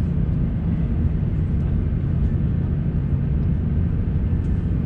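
Cabin noise inside an Airbus A350-900 airliner: a steady low rumble with no distinct events.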